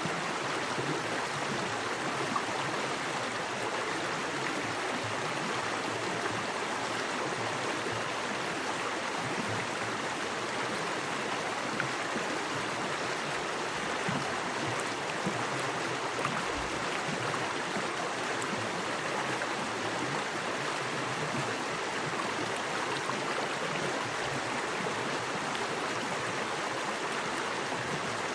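Small forest creek running fast over rocks: a steady, even rush of water with fine splashing detail.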